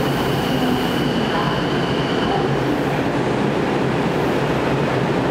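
Odakyu electric commuter train standing at an underground station platform, its equipment giving a steady hum and hiss that echoes around the platform. A faint high tone sounds for the first couple of seconds.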